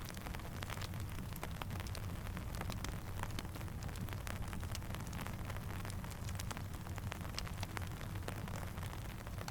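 Steady rain mixed with a crackling campfire: an even hiss over a low rumble, dotted throughout with many small sharp pops and ticks.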